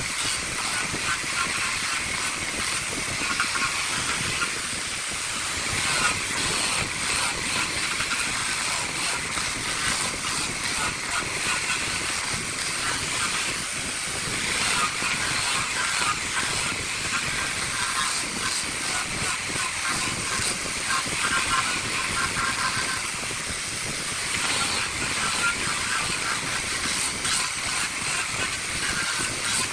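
Wood lathe turning a jackfruit-wood piece with a tool held against the spinning wood: a steady hiss with a fast, fine rattle that comes and goes.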